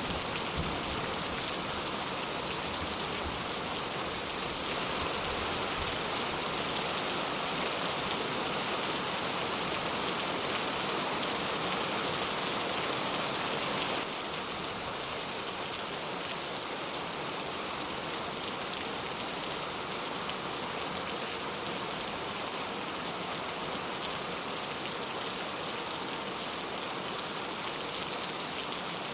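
Steady rain falling, an even hiss of many drops. It becomes slightly quieter about halfway through.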